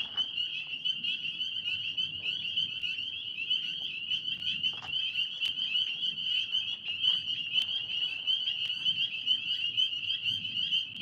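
Chorus of tree frogs calling, a continuous high-pitched pulsing trill that holds steady throughout.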